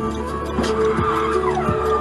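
Car tyres squealing in a skid, the pitch sliding down in the second half, over background music with a steady beat.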